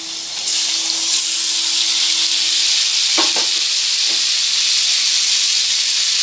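Marinated chicken tipped into hot soybean oil and lightly fried onions in a karai sets off a loud, steady sizzle that jumps up about half a second in. A few sharp clicks come near the middle.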